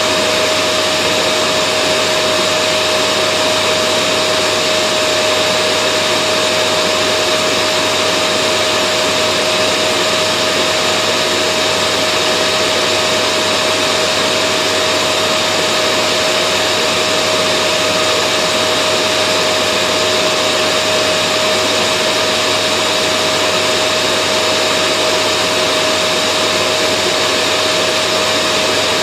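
Vacuum cleaner motor running at a constant speed, a loud steady whooshing hum with a fixed whine and no change in pitch or level.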